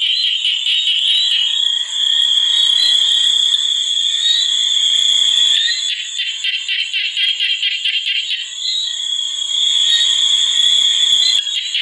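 A dense chorus of calling animals: a steady high-pitched trilling, with stretches of rapid pulsing calls in the middle and near the end.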